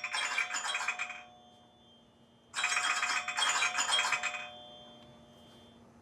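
An iPhone ringtone: a fast, high chiming pattern, heard as two phrases about two seconds long with a short gap between them, the second fading out.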